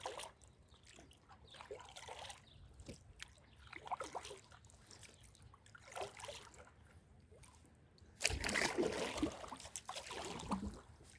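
Water trickling and lapping around a kayak on a calm sea, with small splashes about every two seconds, then a louder spell of splashing and sloshing for about two seconds near the end.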